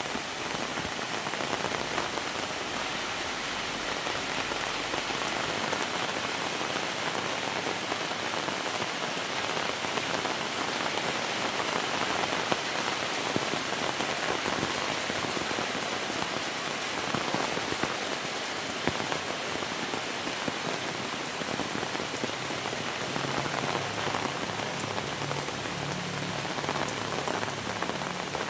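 Heavy rain falling steadily, a dense, even patter of countless drops hitting surfaces.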